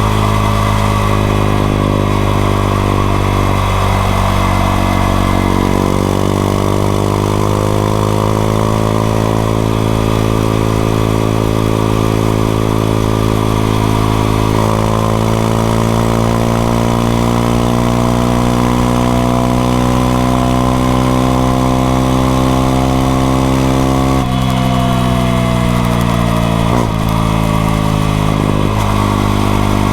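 Honda XRE 190's single-cylinder engine pulling under way, its note climbing slowly, with a gear change about halfway through. Near the end the note steps and falls away as the bike slows.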